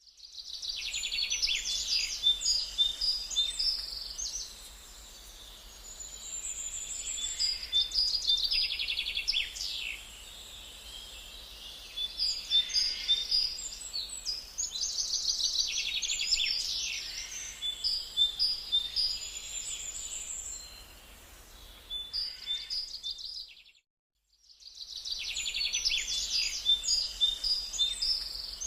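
Songbirds singing: bouts of quick, high trills and chirps a few seconds long, separated by short pauses. The sound drops out completely for about a second near the end, then the singing resumes.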